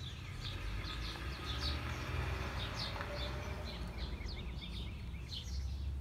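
Small birds chirping over and over in quick short notes, over a steady low outdoor rumble; a hiss swells and fades around the middle.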